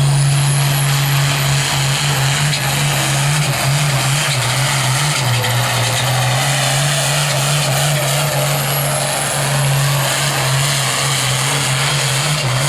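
Pulling vehicle's engine running flat out under heavy load as it drags the weight sled down the track, a loud, steady pitch with a thin high whine above it.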